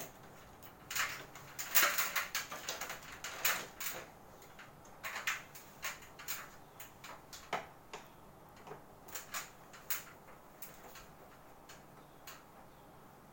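Irregular plastic clicks, snaps and short scrapes from the casing of a Panasonic Sky Series split air conditioner being handled and opened. The loudest are in the first few seconds, and they thin to scattered clicks after that.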